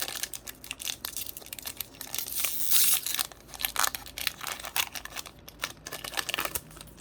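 Crinkling and tearing of a foil Pokémon booster pack wrapper as it is opened, with handling of the cards: irregular crackles, the loudest stretch about two to three seconds in.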